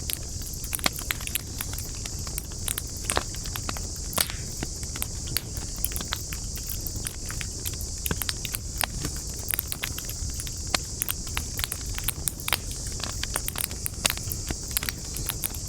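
Wood campfire crackling, with frequent sharp pops and snaps at irregular intervals, over a steady high hiss and a low rumble.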